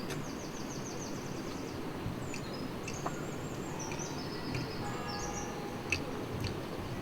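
Small birds singing: a fast high trill in the first two seconds, then assorted chirps and short whistles, over steady background noise.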